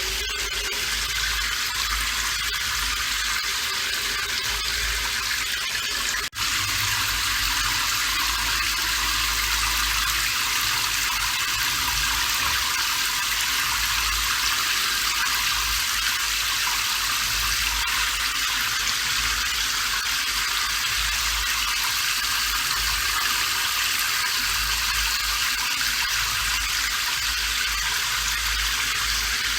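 Steady rain, an even hiss sitting mostly in the upper range with little low end, briefly cutting out for a split second about six seconds in.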